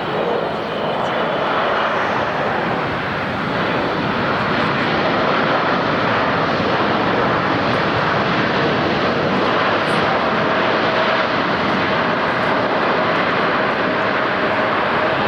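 Jet airliner engines, a loud, steady rush that builds slightly over the first few seconds, with a faint steady tone in the second half.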